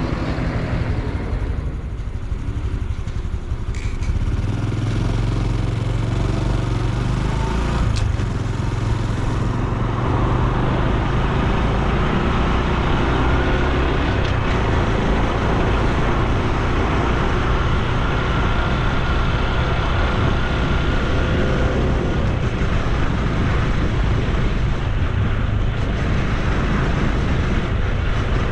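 Honda Super Cub C125's single-cylinder engine and exhaust running under way, a steady drone. It is a little quieter for the first few seconds and picks up from about four seconds in.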